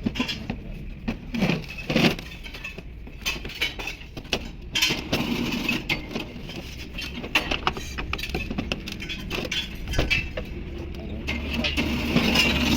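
Metal tools and parts clinking and knocking during tractor gearbox repair work, over a low steady rumble that is strongest in the second half.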